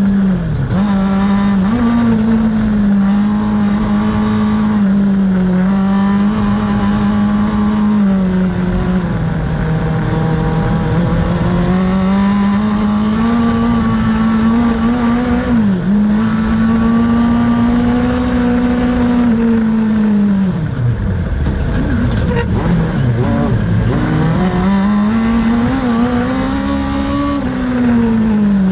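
Kartcross buggy's motorcycle-derived engine at high revs through a race run, its pitch rising and falling with throttle and gear changes. The revs drop sharply twice about three-quarters of the way through, then climb again.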